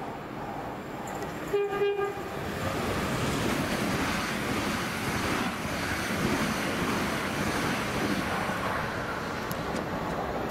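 Two coupled Class 387 electric multiple units passing through a station at speed without stopping. A short horn blast sounds about two seconds in, then a steady rushing noise follows as the carriages go by.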